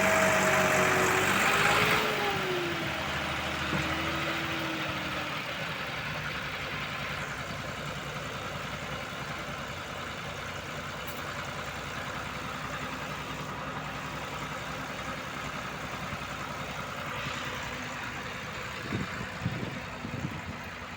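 Heavy diesel engine running, louder for the first two seconds with a wavering whine that falls away, then settling to a steadier, quieter hum. There are a few short low knocks near the end.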